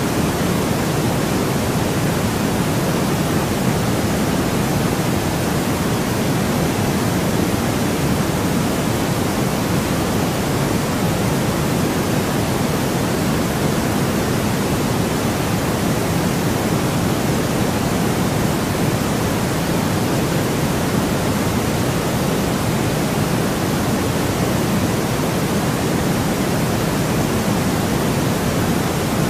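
Steady, unbroken white noise for sleep, an even hiss weighted toward the low end, so it sounds fuller and deeper than a flat hiss.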